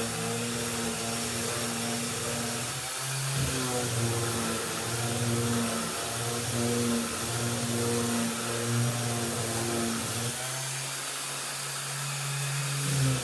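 Vacuum cleaner running, its motor hum wavering up and down in pitch in regular swings from about three seconds in, then steady again near the end.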